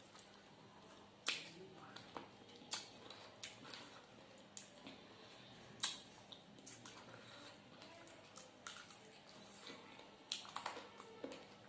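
A person eating close to the microphone: irregular sharp crunches and clicks, a few louder ones, with quieter chewing between.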